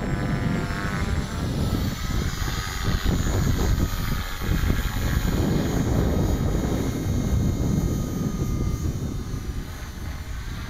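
Electric 450-size RC helicopter flying, its motor and rotor whine rising and falling in pitch as it manoeuvres, with wind rumbling on the microphone.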